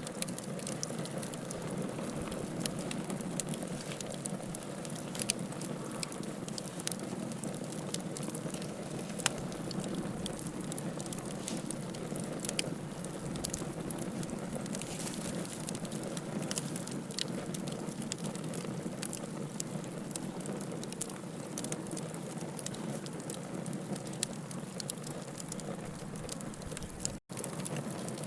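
Wood fire burning in a fireplace: a steady low rush of flames with frequent sharp crackles and pops from the burning firewood. The sound drops out for a split second near the end.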